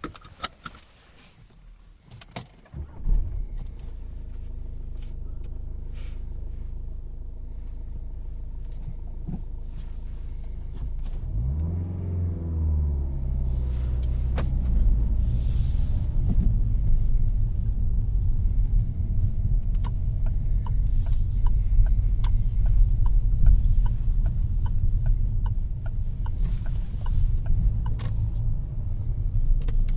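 Peugeot 308's 1.6 BlueHDi four-cylinder turbodiesel starting about three seconds in after a few light clicks, then idling steadily. About twelve seconds in it revs up and drops back as the car pulls away, and then runs steadily under way with road noise.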